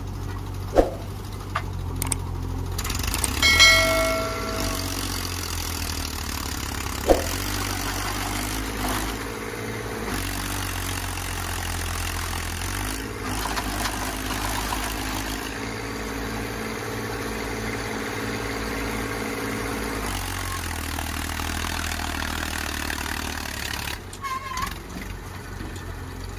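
Tractor diesel engine running steadily, its pitch shifting now and then. There are two sharp clicks, one near the start and one about seven seconds in, and a brief high tone about three and a half seconds in.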